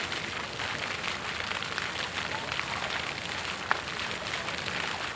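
Waterfall: a steady rush of falling water splashing, with one sharp tick about three and a half seconds in.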